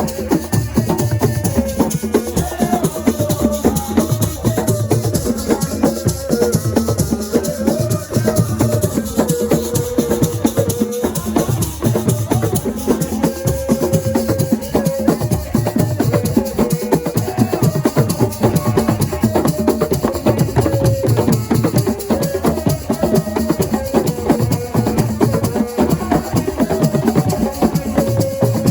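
Assiko percussion music: fast, dense drumming with shakers, and a wavering melody line over it.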